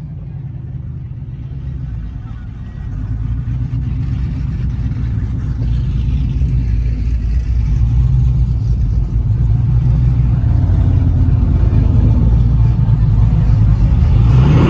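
Truck engine and exhaust rumbling deep and steady, growing louder from a few seconds in.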